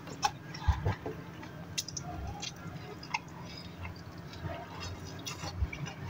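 Close-up chewing of a crispy chicken burger, with soft, wet mouth clicks and smacks scattered through, and a further bite into the burger partway through.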